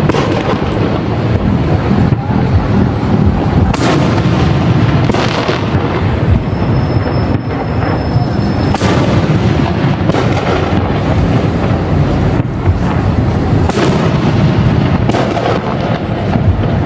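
Aerial fireworks bursting one after another: a continuous low rumble of booms, with sharper cracks every few seconds.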